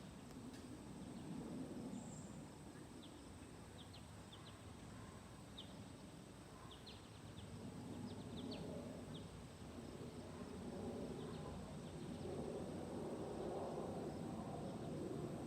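42-inch Hampton Bay Gazebo ceiling fan running with a faint, steady low whir that swells slightly over time. Scattered short, high chirps sound faintly over it.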